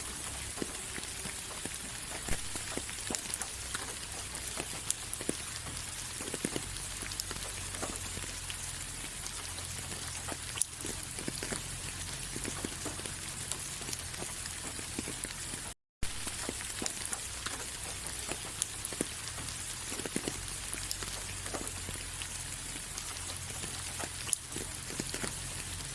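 Steady rain falling, with many individual drops pattering and ticking against a hiss of rainfall. The sound cuts out completely for a split second about sixteen seconds in.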